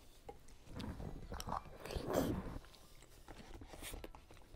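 A person chewing food close to the microphone, with wet mouth sounds and a few short clicks, loudest about two seconds in.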